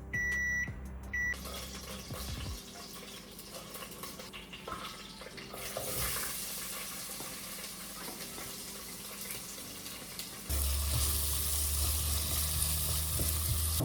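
A couple of short, high electronic beeps from a kitchen appliance in the first second. Then a steady kitchen hiss sets in, growing brighter about halfway through, with a low hum joining near the end.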